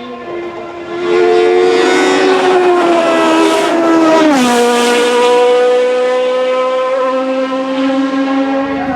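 Hillclimb race car engine at full throttle, its note climbing slowly, then dropping sharply in pitch about four seconds in and holding steady again.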